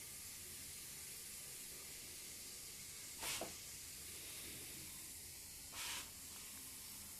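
A frightened cat hissing, two short sharp hisses a couple of seconds apart.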